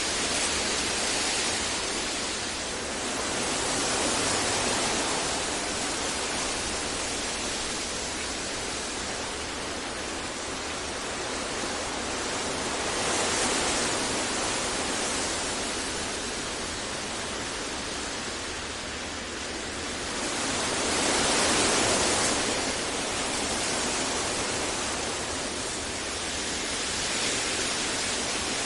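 Steady generated noise for sleep masking: an even, featureless hiss that swells gently and eases back every several seconds.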